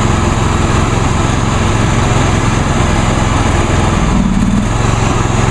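Huskee lawn tractor's 22 hp Briggs & Stratton Intek V-twin running steadily while the tractor drives, its note changing briefly about four seconds in. The owner says it is still not running right and blames carburetor issues.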